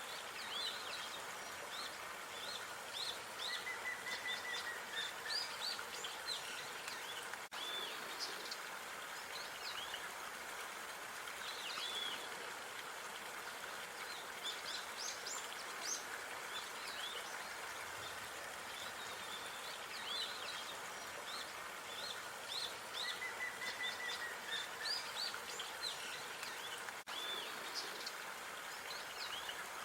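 Small birds chirping and twittering in quick clusters over a steady background hiss of outdoor ambience. The same stretch of birdsong, including a held whistle, comes round again about 19 seconds later, as the track loops.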